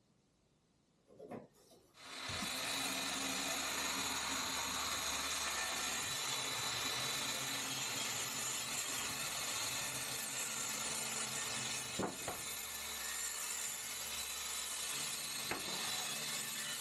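A power tool starts up about two seconds in and runs steadily, with a low hum under a wide hiss and a couple of clicks later on.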